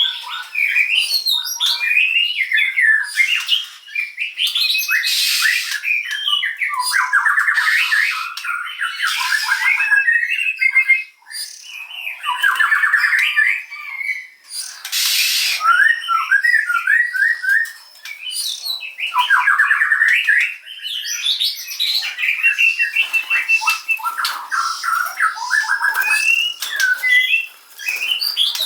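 Oriental magpie-robin (kacer) singing a varied, continuous song of quick chirps, short whistles and fast trills. Three harsh, rasping calls break in, about 5, 9 and 15 seconds in.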